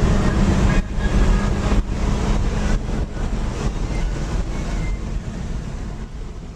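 Porsche driving up the road: engine running under way with road and wind noise, the level easing down toward the end.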